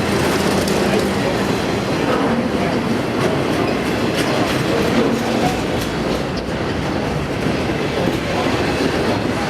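A train passing on the tracks: a steady, loud rumble of steel wheels on rail with scattered clicks.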